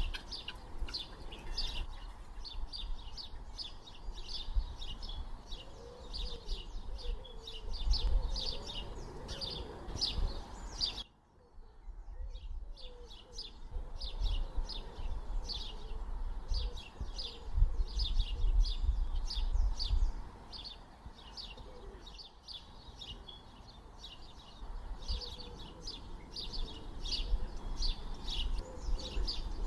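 Small birds chirping in quick repeated chirps, about three a second, over a low rumble. The sound cuts out abruptly for a moment about eleven seconds in, then resumes.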